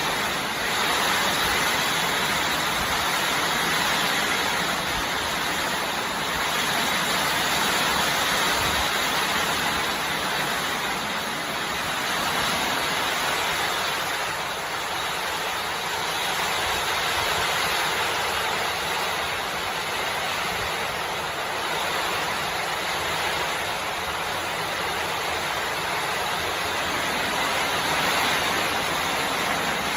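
Steady rain from the tail of a tropical storm, a continuous even hiss that swells and eases slightly without a break.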